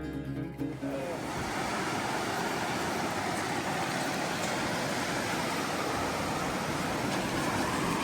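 Steady rushing noise of surf washing onto a beach, after acoustic guitar music fades out in the first second.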